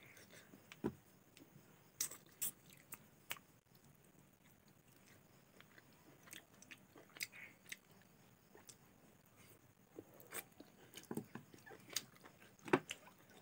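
Mouth sounds of someone eating boiled chicken and rice by hand: chewing with irregular wet clicks, smacks and soft crunches, a sharper one near the end.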